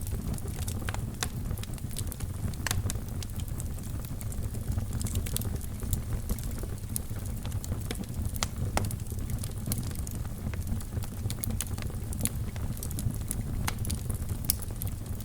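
Fire burning in a fireplace, crackling with frequent sharp pops and snaps over a steady low sound of the flames.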